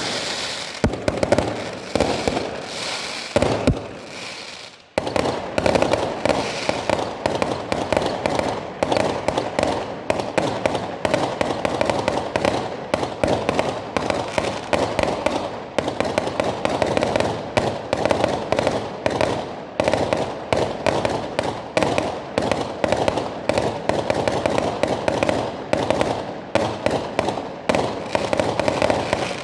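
Fireworks going off in a fast, unbroken string of sharp bangs and crackles, several a second. There is a short lull about four seconds in, then the bangs run on without a break.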